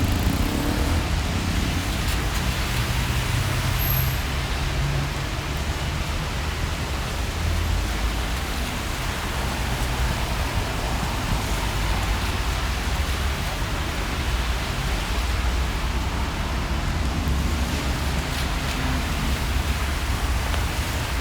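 Steady rain falling on a city street, with a low rumble of road traffic underneath.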